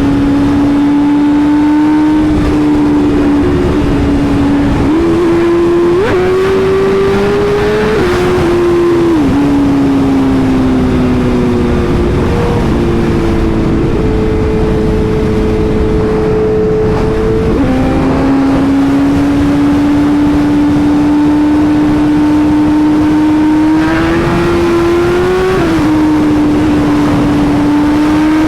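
BMW S1000RR inline-four sport-bike engine under way at steady cruising revs, its pitch stepping up and down a few times with throttle and gear changes, over a rush of wind and road noise.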